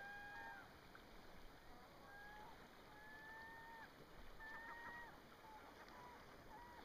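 Faint bird calls: several drawn-out, even whistled notes, a few broken into quick stutters, over a soft hiss of wind and river.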